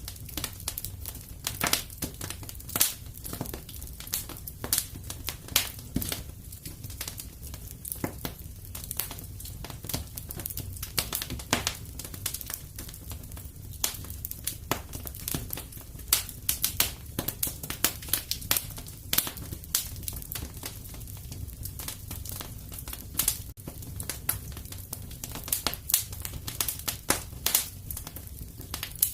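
Fireplace fire crackling steadily over a low rumble, with frequent irregular sharp pops and snaps.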